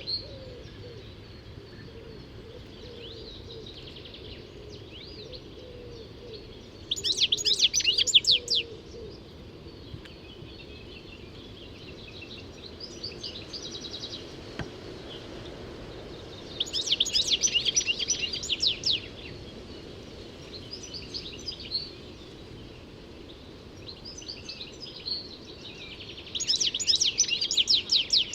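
European goldfinch singing: three loud bursts of rapid twittering notes, about ten seconds apart, with softer twittering phrases in between.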